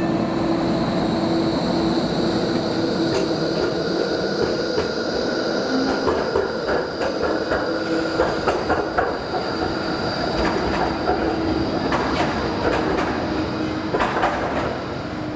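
A light-rail tram running along the former St Kilda railway line, with a steady high whine and squeal from the wheels. A run of clicks and knocks, as over rail joints, sets in about six seconds in and goes on to near the end.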